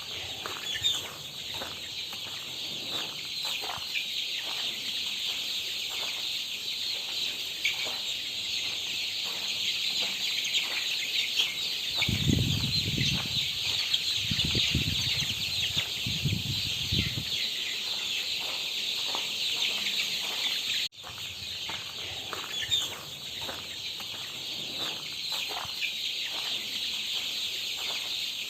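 A flock of month-old fancy chicks peeping continuously, many high-pitched calls overlapping into a dense chorus. About twelve seconds in, a low rumble runs under the peeping for roughly five seconds.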